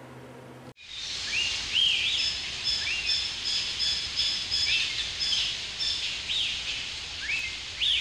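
Outdoor birdsong: several birds chirping over a steady background hiss, with repeated short rising chirps and high whistled notes. It starts abruptly about a second in, when music cuts off.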